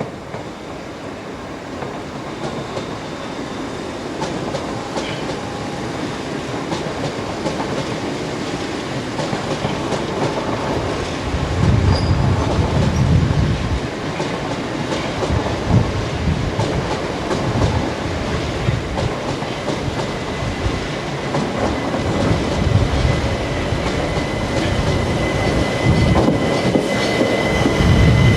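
Electric multiple-unit train approaching along the platform, growing steadily louder, its wheels clattering over rail joints with heavy thumps. A thin steady wheel squeal joins in the last third.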